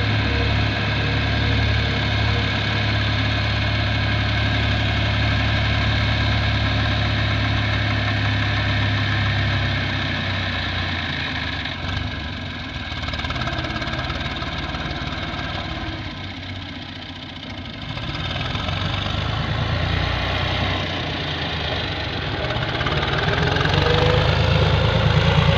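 Ford tractor engine running steadily. It drops in level about two-thirds of the way through, builds back up, and rises in pitch near the end as it is revved.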